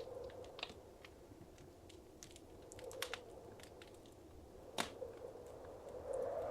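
Wood fire crackling in a fireplace: scattered small snaps and pops, the loudest a little before five seconds in, over a soft steady rush.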